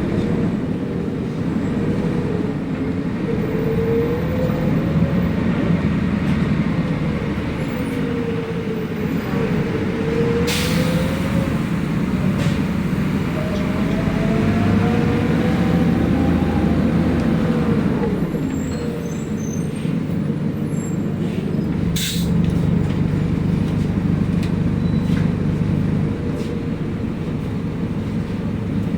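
City bus riding through traffic, heard from on board: steady engine and road noise with a whine that rises and falls, and two brief hisses about ten and twenty-two seconds in.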